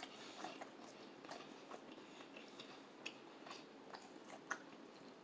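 Faint chewing of crispy fried chicken, with small irregular crunches and mouth clicks.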